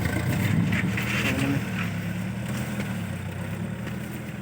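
Truck engine running steadily with a low, even drone that eases slightly near the end.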